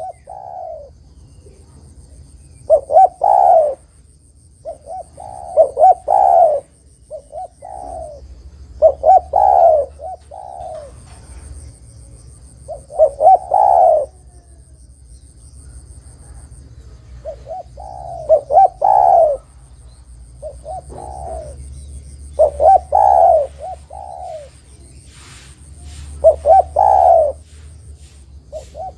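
Spotted dove (tekukur) cooing: a phrase of several mellow coos, repeated about every three to four seconds, seven times over. A faint steady high-pitched tone comes and goes in the background.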